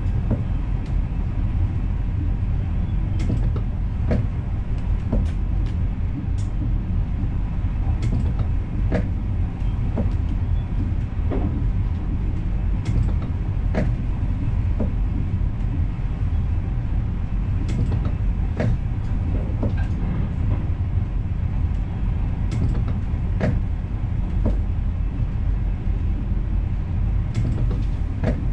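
NS Intercity train running along the track, heard from inside the driver's cab: a steady low rumble with irregular sharp clicks and creaks.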